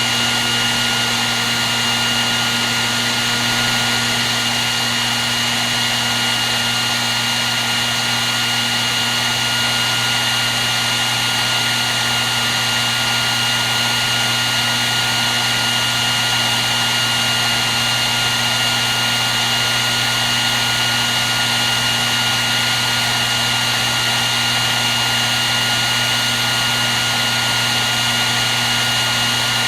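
Hair dryer running steadily on one setting: an even rush of blown air with a constant high whine from its fan motor and a low hum underneath.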